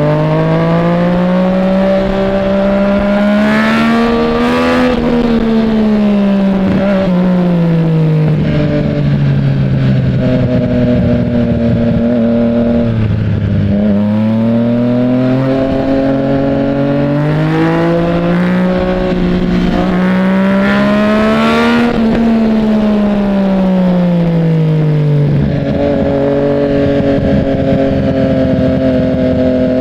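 Yamaha MT-09's three-cylinder engine on the move, its pitch climbing and easing off twice as the throttle is rolled on and off, then holding steady near the end.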